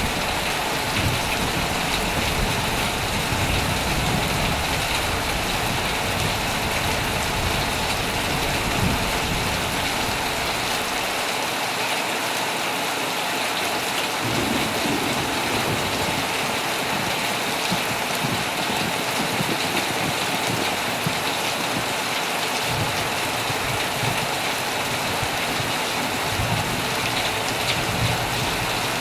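Heavy rain falling steadily on a tent, with a low thunder rumble that swells and fades underneath, strongest at the start and again near the end.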